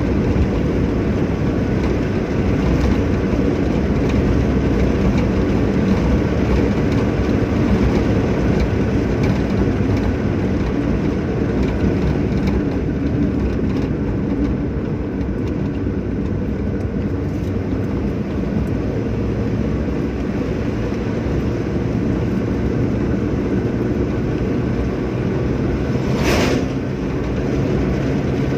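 Hyundai Santro car driving: steady engine and road rumble, with one short sharp noise near the end.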